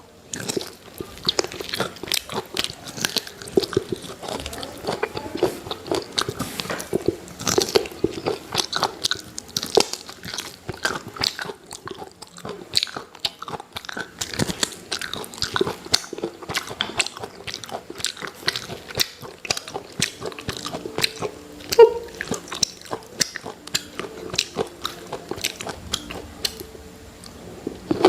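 Close-up crunching and chewing of crispy fried chicken: many quick, irregular crunches of bites into the coating throughout.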